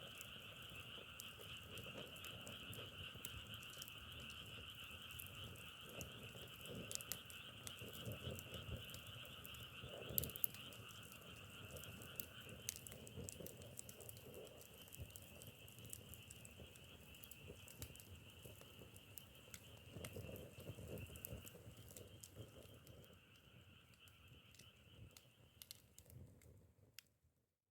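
Wood fire crackling and popping under a steady chorus of frogs calling. The lower-pitched part of the chorus stops about halfway through, and everything fades out near the end.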